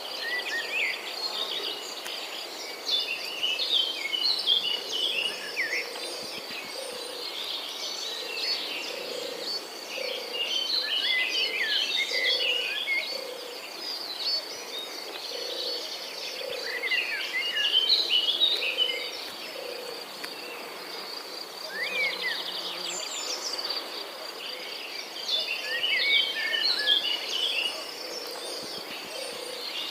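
Outdoor nature ambience: a steady high insect trill runs throughout, with bursts of bird song, quick chirping phrases, coming in every several seconds.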